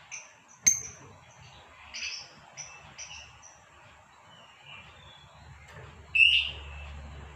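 Female lovebird giving a scatter of short, high chirps, with a louder call about six seconds in.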